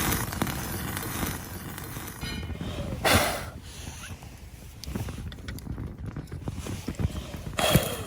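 Meat sizzling in a Turk frying pan over a campfire, with two louder surges of sizzle, about three seconds in and again near the end.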